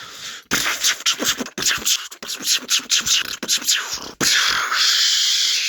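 A person making mouth sound effects for a repair: a quick run of breathy 'ch-ch' sounds, about four a second, then a long steady 'shhh' hiss from about four seconds in.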